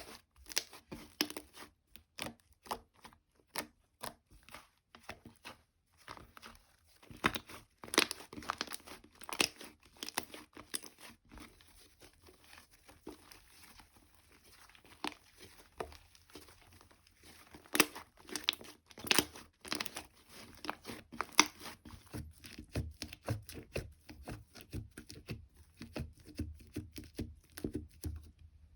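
Hands squishing, pressing and stretching slime, making a run of small irregular crackling pops and clicks.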